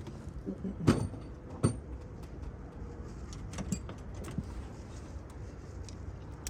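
Hand tools clanking and clinking against metal engine parts as bolts are worked loose: two sharp metal knocks about a second in, then lighter scattered taps and clicks.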